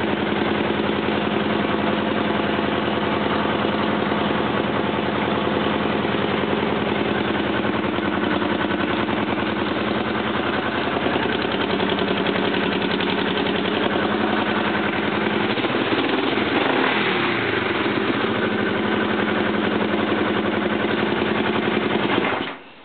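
1971 Honda Scrambler motorcycle engine idling steadily, then shut off, cutting out suddenly near the end.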